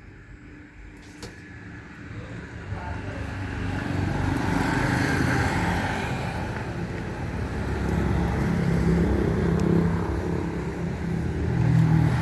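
Mitsubishi Colt T120SS pickup's 1.5-litre petrol engine running. It grows louder about two to four seconds in and stays loud after that.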